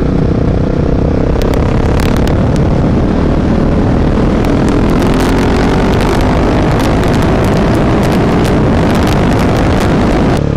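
Husqvarna 701's single-cylinder engine with a Mivv aftermarket exhaust pulling hard under acceleration, its pitch rising in repeated climbs. The bike is restricted to 41 PS. Heavy wind rush runs under the engine sound throughout.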